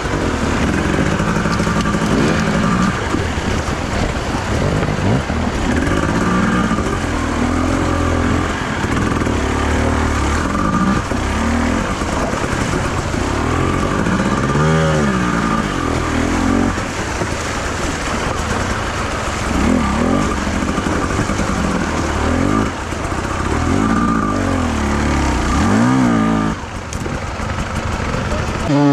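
Enduro motorcycle engine being ridden hard, revving up and down over and over as the throttle is worked, its pitch rising and falling every second or two.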